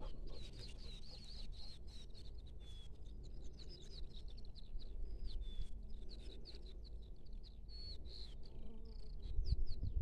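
Small songbirds chirping and twittering in quick, short high notes, one after another, over a steady low rumble. The rumble grows louder near the end.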